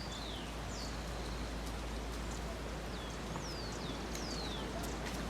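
Birds calling with short, falling whistles, about half a dozen times, over a steady background hiss.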